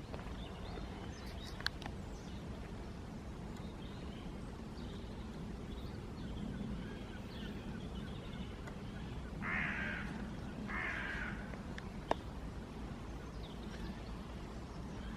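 A crow cawing twice, two harsh calls about a second apart just past the middle, over faint chirping of small birds and a steady low rumble. A couple of brief sharp clicks also sound.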